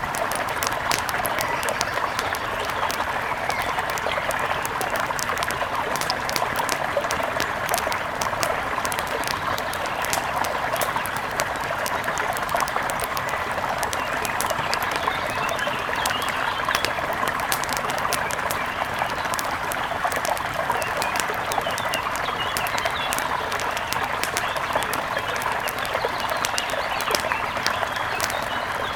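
Mountain river rushing steadily, with a wood fire crackling in sharp pops throughout and faint bird chirps in the second half.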